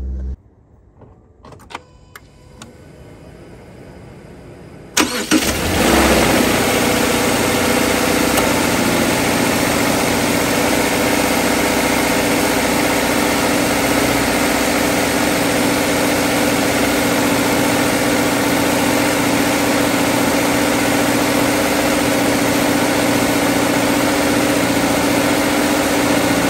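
A Subaru FB20 2.0-litre flat-four engine cranks and starts about five seconds in, flares briefly, then settles into a steady idle with its new PCV valve fitted. A few faint clicks come before the start.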